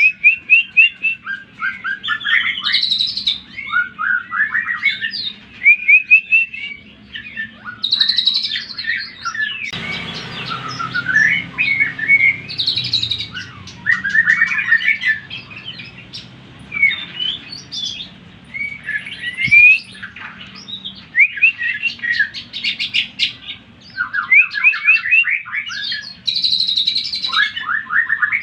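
Greater green leafbird (cucak ijo) singing a fast, varied song in phrases of rapid, sharply falling chirps and trills. This is the agitated full song used as a 'pancingan' recording to rouse other cucak ijo into singing and raising their crests. A brief rushing noise sits under the song about a third of the way in.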